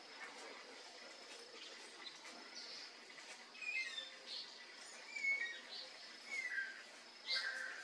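Birds calling: short chirps and slurred, falling notes, more frequent from about two and a half seconds in, over a faint steady high tone.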